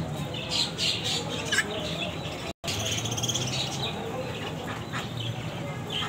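Caged birds chirping, with short high calls scattered throughout over a low steady hum. The sound cuts out for an instant about halfway.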